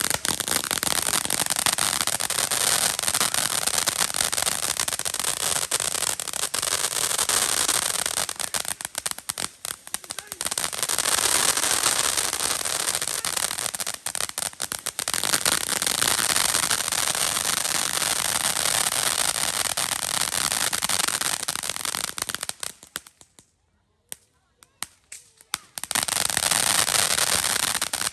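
Fireworks crackling: a dense, rapid run of small pops that goes on for many seconds with brief lapses. It stops for a couple of seconds with only a few stray pops about 23 seconds in, then starts again.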